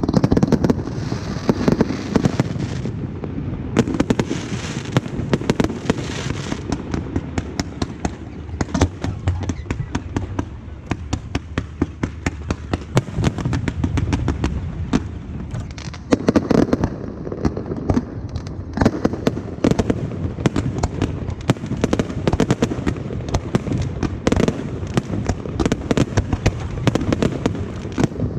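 Aerial fireworks going off in a dense, continuous barrage: many sharp bangs and crackling reports overlap with hardly a pause.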